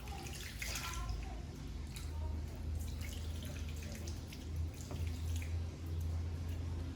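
Water dripping and trickling in a sink, with scattered small drips over a low steady hum.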